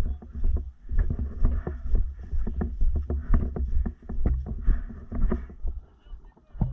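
Footsteps and the rustle and knocking of clothing and gear close to the microphone, with many irregular knocks over a low rumble that surges and drops every second or two.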